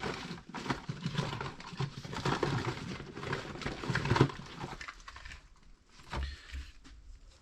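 Handling noise: rustling with many small clicks and knocks, busy for about five seconds, then one knock about six seconds in.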